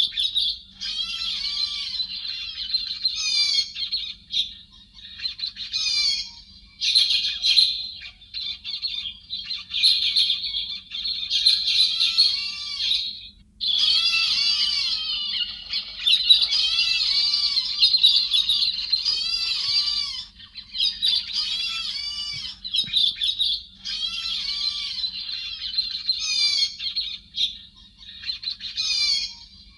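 Chim héc xoan, a Vietnamese bird that the uploader files under 'chim hét' (thrush), calling in a dense, nearly unbroken run of squawks and quick chirps, as used in a trapping lure recording; there is a brief pause about halfway through.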